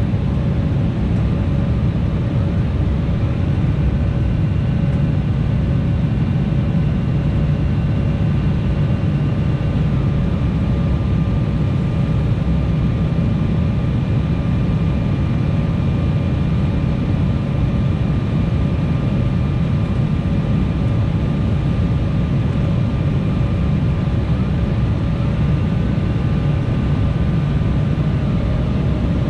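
Cabin noise inside an Embraer E175 in flight: a steady deep rumble of airflow and the GE CF34 turbofan engines, with a constant engine whine. Higher whine tones glide up about three seconds in and again near the end, hold for several seconds, then fade as engine thrust changes.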